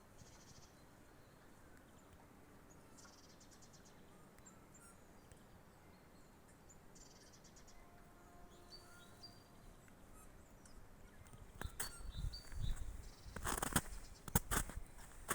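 Small birds calling faintly in a forest, with short high trills and a few brief whistled notes. From about three-quarters of the way in, loud irregular footsteps crunch close by.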